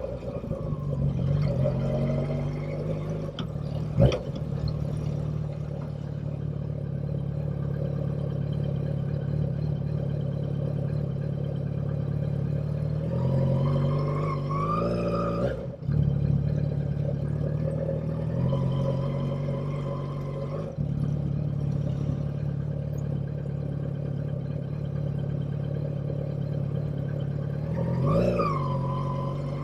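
Motorcycle engine running at a steady pace, then rising in pitch as it accelerates and dropping at gear changes around halfway and again near the end. A sharp click about four seconds in.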